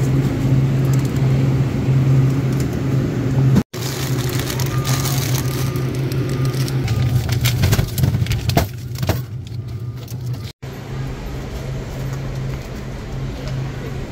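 Steady low hum of a vehicle with road noise, broken twice by brief dropouts.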